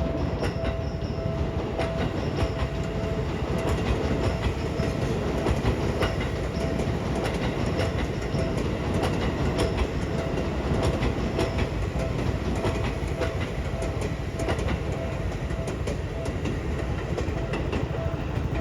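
A Seibu line train rolling steadily past a level crossing, its wheels clacking over the rail joints. The crossing's warning bell rings its repeated 'kan-kan' tone over the train noise.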